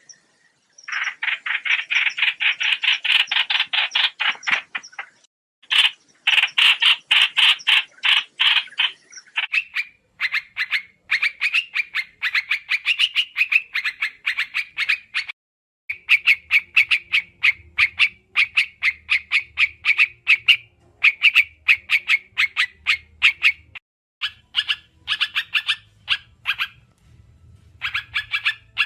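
Trao trảo bird giving loud, rapid chattering call series, bursts of fast repeated notes broken by short pauses: a lure recording used for bird trapping. A faint low hum runs under the second half.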